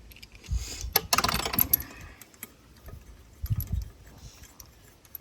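Loose metal hardware clinking and jangling as bolts and bracket pieces are handled, with a dense burst of clinks about a second in and a couple of dull handling thumps.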